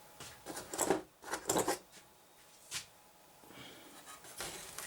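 A few short rubbing and knocking noises, with a louder scrape near the end.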